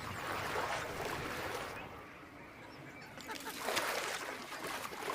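A flock of flamingos honking and calling together in a dense chorus, easing off briefly partway through before building again.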